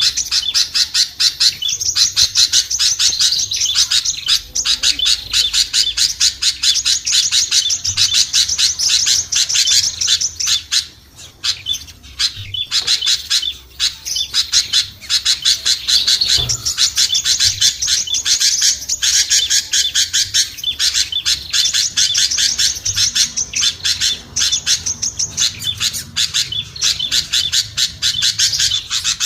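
Small songbirds chattering and chirping in a dense, very rapid stream, with a brief lull about 11 seconds in: a bird-lure recording for drawing small birds down.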